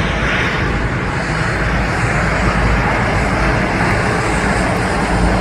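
Steady rushing noise of a passing jet airliner's engines.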